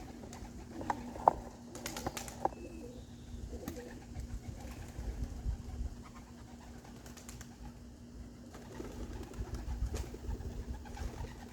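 Domestic pigeons cooing softly, under gusts of wind rumbling on the microphone, with a steady low hum and a few sharp clicks in the first couple of seconds.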